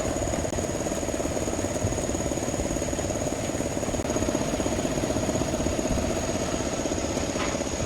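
Heavy quarry machinery running steadily, a continuous engine sound with a fast, even pulse.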